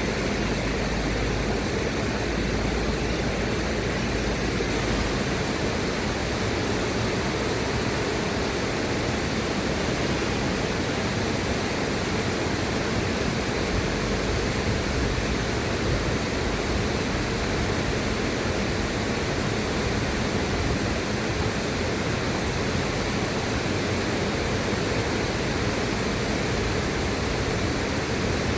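River water rushing in a steady, even noise, without breaks or distinct splashes.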